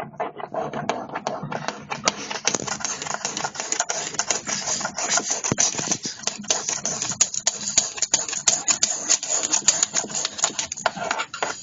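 Rapid, irregular clicking and tapping, many clicks a second and dense like fast typing.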